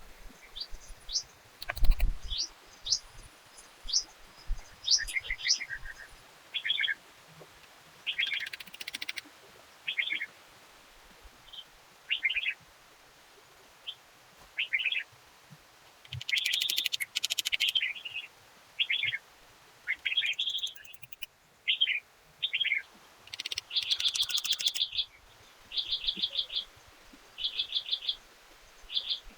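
Forest birds singing: a run of short whistled notes and trills, and in the last few seconds a short rattling phrase repeated about once a second. A single knock sounds about two seconds in.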